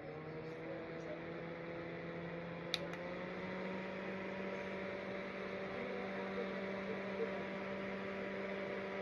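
A small electric motor's hum: it spins up, rising in pitch over the first few seconds, runs steadily, and cuts off suddenly at the end.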